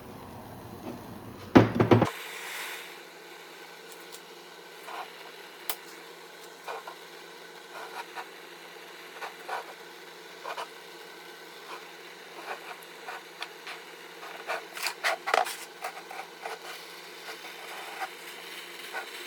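Hand work with tools and metal parts: scattered small clicks, taps and scrapes, with one louder knock near the start and a busier run of clicks about three quarters of the way through.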